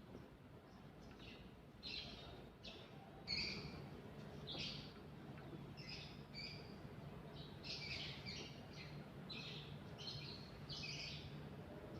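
Faint bird chirps, short high calls repeating every half second to a second. A faint low steady hum joins underneath about three seconds in.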